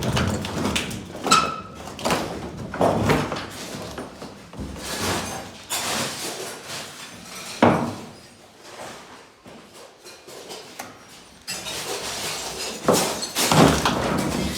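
Irregular knocks, bangs and scraping as objects are handled and moved about.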